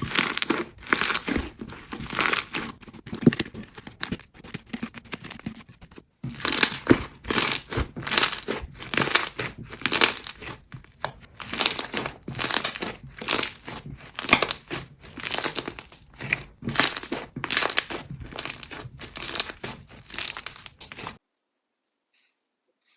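Jelly slime being squeezed and pressed by hand, giving a quick run of short, crackly squishes about every half second. There is a brief break about six seconds in, and the sound stops abruptly near the end.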